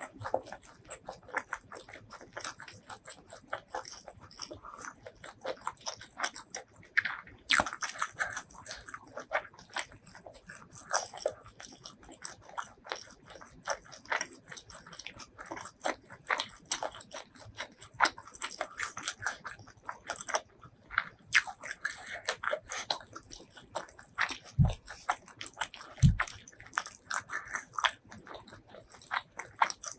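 Close-miked eating: a person biting and chewing food with crisp, crackling crunches and wet mouth sounds, irregular throughout. Two dull low knocks come about three quarters of the way in.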